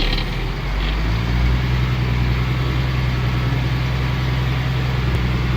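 Truck engine running steadily; its note changes about a second in, then holds even.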